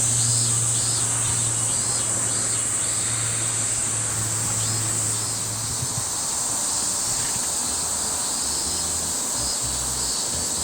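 Steady high-pitched insect chorus, with a low hum underneath that fades out about halfway through.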